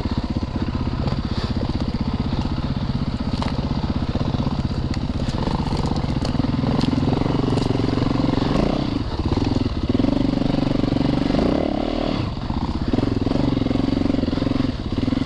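Four-stroke single-cylinder dirt bike engine running at low revs, then pulling harder in several throttle bursts from about six seconds in.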